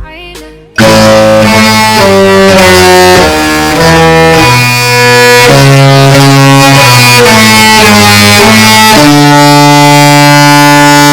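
The Disney Magic's musical ship horn sounding a tune: a very loud series of held horn notes stepping from pitch to pitch, ending on one long sustained note.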